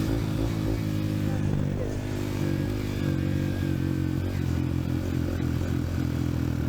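Dirt bike engine running at a fairly steady pitch, a continuous low drone with no clear revving.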